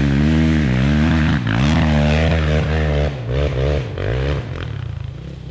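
450 dirt bike engine revving hard under load, its pitch climbing and dropping several times as the throttle is worked, then falling away after about four seconds.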